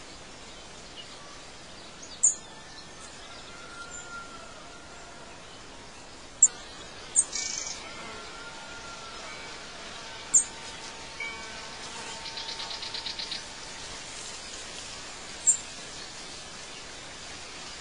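Birds chirping over a steady background hiss: short, sharp, high chirps every few seconds, and a rapid trill a little past the middle.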